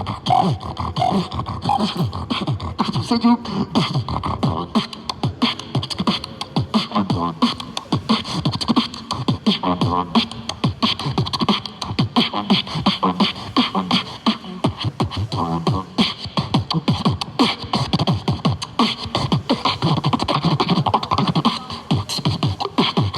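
Beatboxing: a fast, continuous stream of mouth-made kick, snare and hi-hat sounds mixed with hummed, pitched bass lines.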